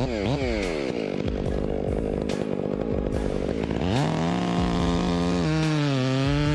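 Chainsaw revved in quick blips, its pitch rising and falling about three times a second, then a rougher stretch. From about four seconds in it climbs to a steady high rev and holds.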